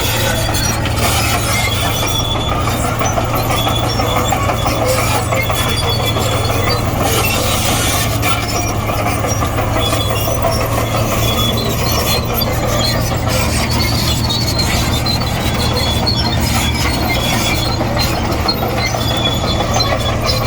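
Komatsu D58E crawler bulldozer's diesel engine running steadily, with its steel tracks clanking and giving short, repeated high squeals.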